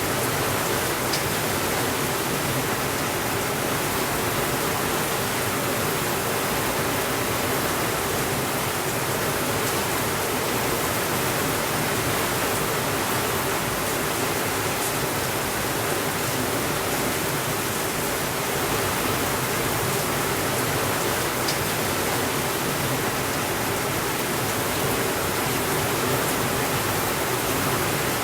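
Steady rainfall, an even, unbroken hiss, with a few faint ticks.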